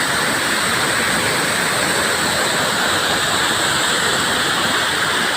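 Spring-fed waterfall pouring: a steady, unbroken rush of falling water.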